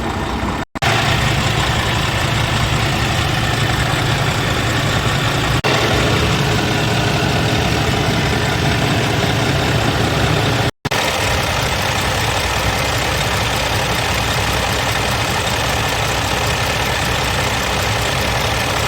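Scania R400 truck's 13-litre straight-six diesel idling steadily, broken by two brief dropouts, about a second in and near the middle.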